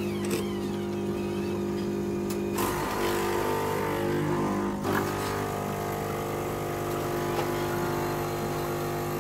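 Automatic coffee machine running as it makes a cup, a steady motor and pump hum whose note changes about two and a half seconds in and again near the middle.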